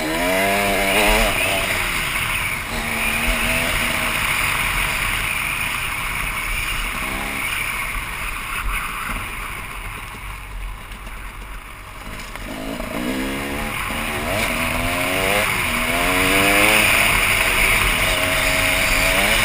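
KTM 300 EXC two-stroke dirt bike engine under way, revving up and easing off again and again as it is ridden. About halfway through it goes quieter for a few seconds, then revs up hard several times in quick succession.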